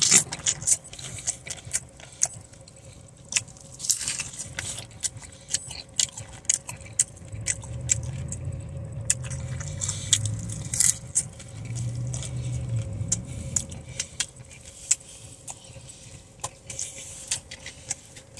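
Biting and chewing a crunchy hard taco shell close to the microphone: a dense run of sharp crunches and crackles that carries on through the whole bite.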